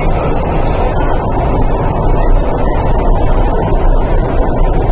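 Steady, loud low rumble aboard an MTR East Rail Line R-Train electric multiple unit standing at a platform with its doors open, with no distinct knocks or chimes.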